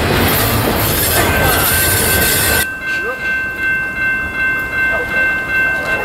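Double-stack intermodal freight cars rolling past with a steady heavy rumble, cut off suddenly about two and a half seconds in. Then the horn of an approaching Norfolk Southern D9-44CW locomotive sounds a steady chord of several tones, held to the end.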